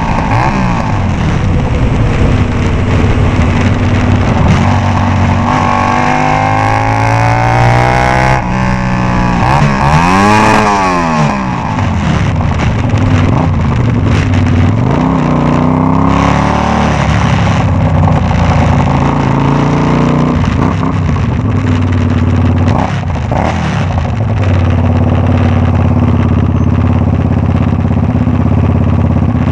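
Kasinski Comet GTR 250's V-twin engine running with no exhaust, open and loud, revved up repeatedly. About eight seconds in it climbs and hits the rev limiter, then it makes several more rising and falling revs and settles to a steady idle near the end.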